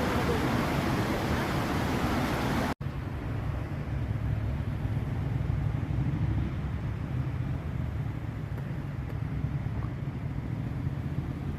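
A mountain stream's rushing water for about the first three seconds. After an abrupt cut it gives way to a steady low rumble with little hiss.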